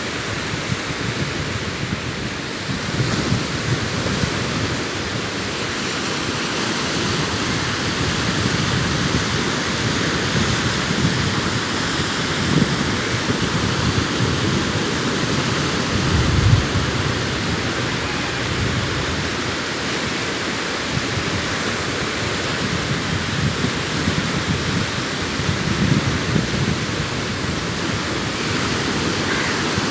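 Sea waves breaking and washing up a sandy beach in a continuous rushing surf, with a louder surge about halfway through.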